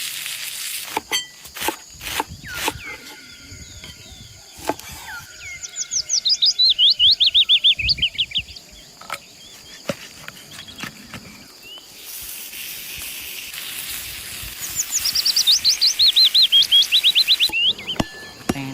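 A songbird singing a fast trill of repeated high chirps, heard twice, about six seconds in and again about fifteen seconds in, with scattered sharp clicks and knocks and a steady hiss in the second half.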